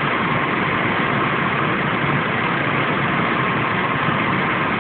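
1998 Chevy Blazer's 4.3-litre V6 idling steadily under the hood with the AC running, its newly fitted compressor engaged and staying on during recharging as the refrigerant charge comes up.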